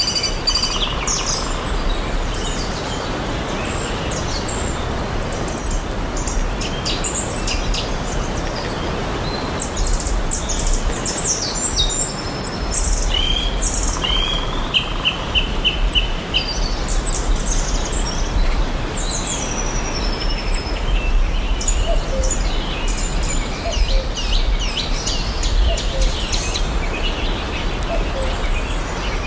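Several songbirds chirping and calling over a steady background hiss of outdoor ambience. About midway, one bird gives a run of evenly spaced repeated notes.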